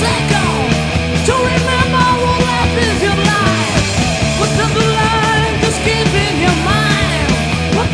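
Heavy metal song from a 1988 demo recording: distorted electric guitars, bass and drums playing, with a lead line of held notes that bend and slide in pitch.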